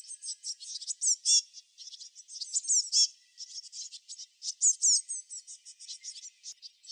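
Small birds chirping: rapid, high-pitched runs of short falling notes in quick bursts, with brief pauses between the runs.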